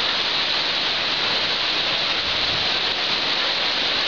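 Heavy rain shower falling steadily, a dense, even hiss.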